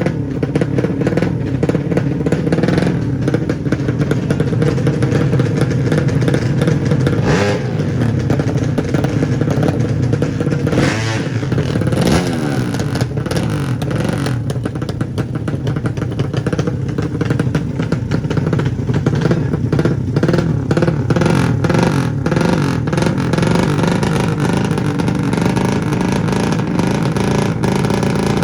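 Loud drag-racing underbone motorcycle engines of the 200cc class running and revving continuously, with a rapid crackle of firing pulses and a couple of brief revs in the middle.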